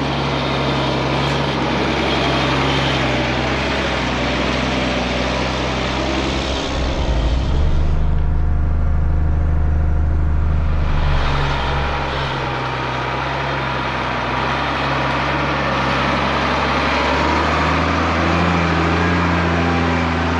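Mercedes Unimog U1700L truck's diesel engine running steadily as the truck crawls along a sand track, with a deeper, louder stretch about seven to eleven seconds in.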